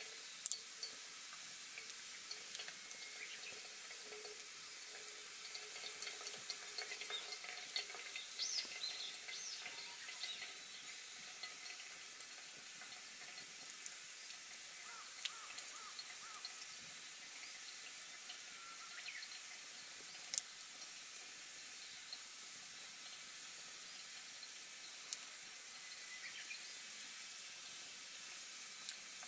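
Campfire burning with a steady hiss and occasional sharp crackles and pops from the wood.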